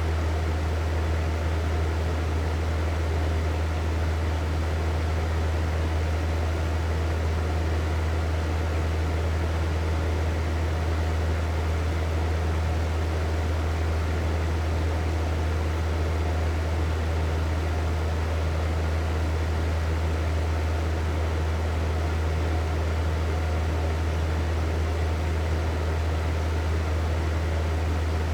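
Hair dryer running steadily: an even blowing-air noise over a strong low hum, with no change in speed.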